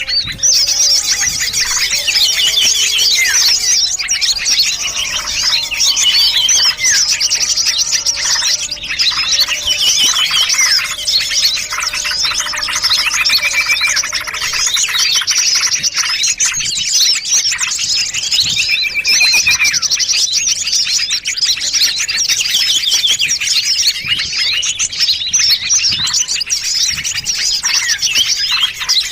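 Dense chorus of many small songbirds chirping, trilling and whistling at once, with calls overlapping without a break: a layered bird-lure mix of several small-bird species.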